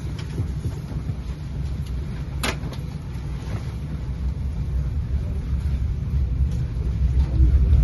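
A passenger train's low running rumble heard from inside the coach as it rolls into the station, growing louder near the end, with one sharp click about two and a half seconds in.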